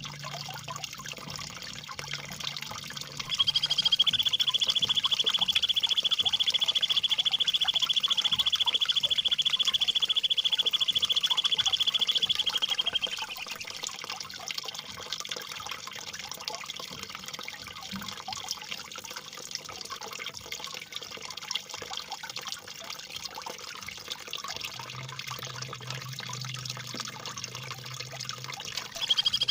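A songbird's sharp, rapid rolling trill, held for about ten seconds from a few seconds in, over steady trickling, gurgling water. It is the rough, rolling 'tembakan ngerol' phrase used in masteran recordings to train white-rumped shamas, and it starts again just before the end.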